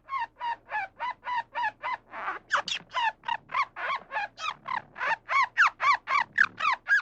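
An animal, bird-like, giving a fast run of short, harsh, pitched squawking calls, about four a second, getting louder partway through, then cutting off suddenly.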